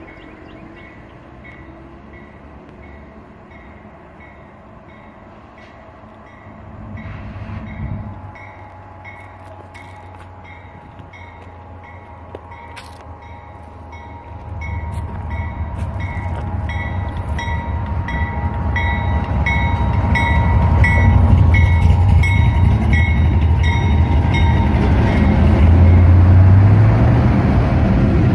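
CSX freight train's diesel locomotives approaching and rolling past close by: a low engine rumble that swells from about halfway and is loudest near the end. A bell rings steadily throughout, about two strokes a second, fading out near the end.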